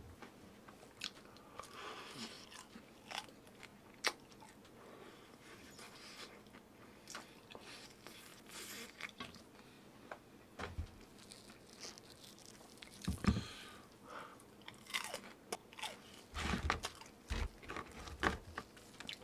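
A person chewing and biting into crunchy food close to the microphone, with irregular crunches that grow louder and more frequent in the last few seconds.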